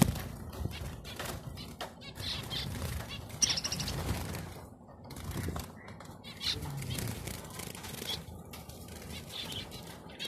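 Finches fluttering their wings in short bursts and giving brief high chirps.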